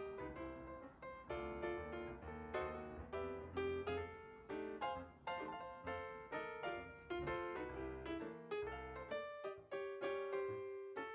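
Background piano music: a melody of struck notes, several a second, each fading after it is played.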